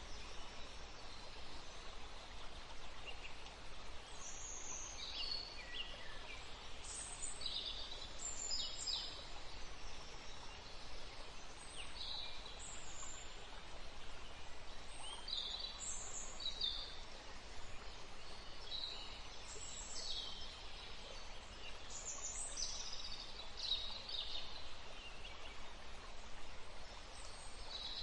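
Small birds chirping in a forest: short, high calls, many falling in pitch, scattered every second or two over a steady background hiss.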